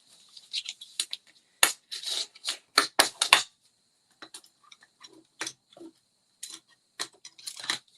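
Cardstock and paper-crafting tools being handled on a work table: a string of irregular sharp taps, clicks and paper rustles, busiest and loudest from about one and a half to three and a half seconds in, then sparser.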